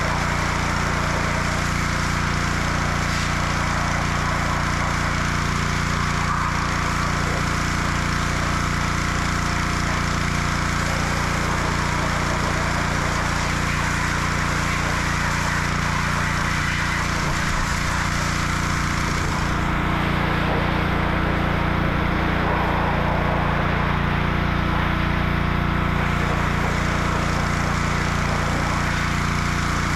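A running motor drones steadily and evenly, with no change in speed.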